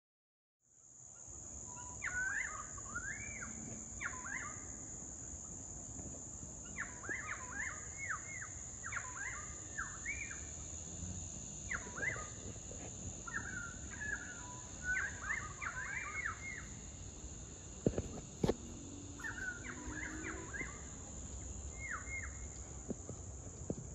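Wild birds calling in the garden in repeated bouts of quick, sweeping chirps and whistles, over a steady high-pitched drone. A couple of sharp clicks come about eighteen seconds in.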